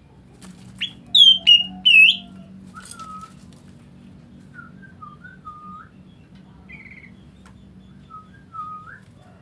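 A bird's whistled calls: three loud, sharp notes falling in pitch about a second in, then softer short whistled notes now and then.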